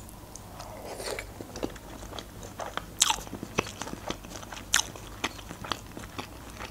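Close-miked chewing of a mouthful of fried egg: wet mouth clicks and smacks at an irregular pace, a few sharper ones standing out.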